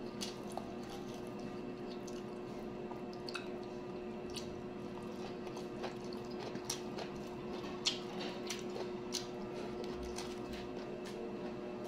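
Close-up chewing of a mouthful of corn rice and cabbage, with scattered short mouth clicks over a steady low hum.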